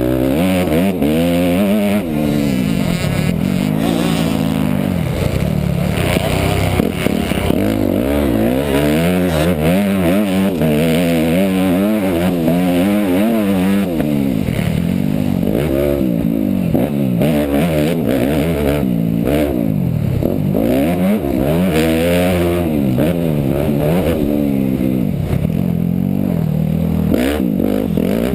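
Motocross dirt bike engine revving hard, its pitch climbing and dropping back again and again every second or two as the throttle opens and closes.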